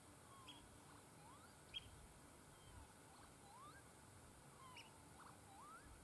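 Near silence with faint bird calls: a few short high chirps and several whistled notes, some sliding up and some sliding down.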